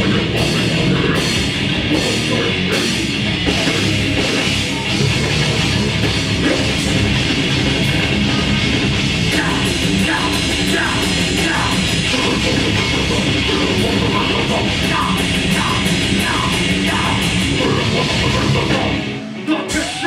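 Grindcore band playing live: distorted electric guitars, bass and drum kit in a loud, dense wall of sound. The song breaks off about a second before the end.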